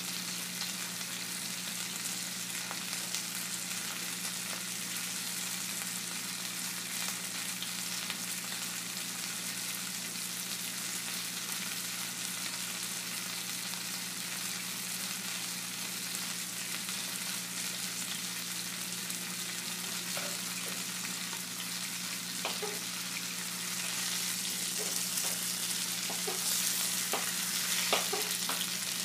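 Food sizzling and frying in a pan, a steady crackling hiss over a low steady hum, growing a little louder near the end with a few light clinks.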